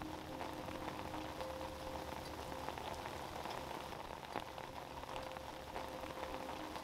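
Heavy rain falling on a lake's surface: a steady hiss with scattered sharper ticks of individual drops.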